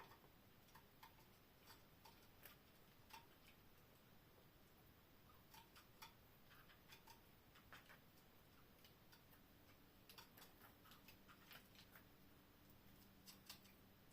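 Near silence with faint, irregular small clicks and ticks, a few in a row at times.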